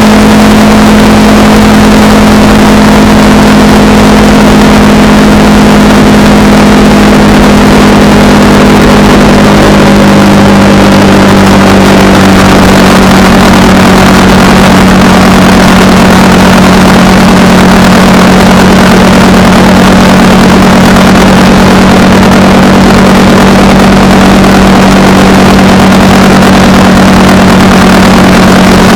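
Honda Rebel 300's single-cylinder engine running at a steady cruise over a loud rush of wind and road noise. Its pitch eases slightly lower about ten seconds in, then holds steady.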